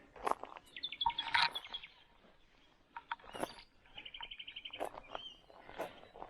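Small birds calling: a run of short high chirps about a second in, then a fast trill of about a dozen even notes about four seconds in. Scattered crunching footsteps on creek-bed debris sound among the calls.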